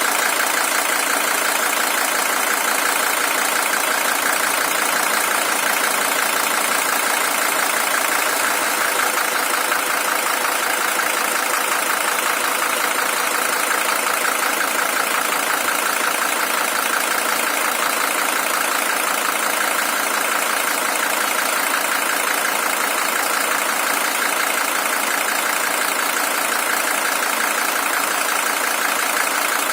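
Mercedes-Benz OM617 five-cylinder diesel engine, original with 620,000 km on it, idling steadily.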